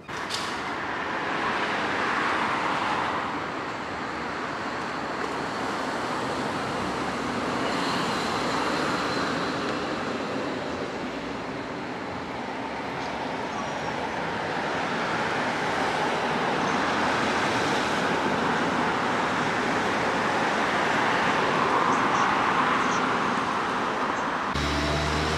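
Road traffic noise: cars passing, the sound swelling and fading in slow waves. About a second before the end it switches to a steady low hum.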